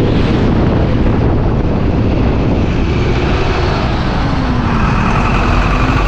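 Motorcycle running on the move, with a steady wind rumble on the microphone; the engine's pitch dips and comes back up a little past the middle.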